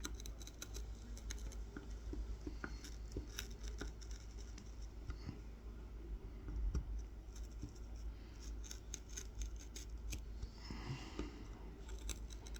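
Kolrosing knife point incising fine lines into a wooden honey dipper: a run of small, crisp scratching clicks, stroke after stroke.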